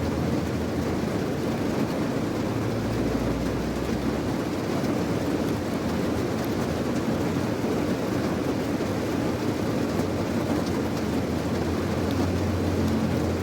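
Steady rain with a low rumble underneath that swells briefly a few seconds in and again near the end.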